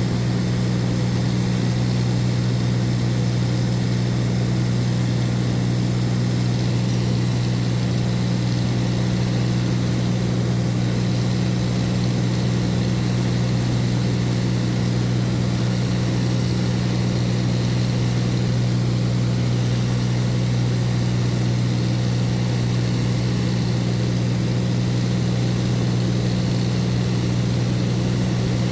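Light aircraft's propeller engine running steadily, heard from inside the cabin as a constant low hum over an even hiss.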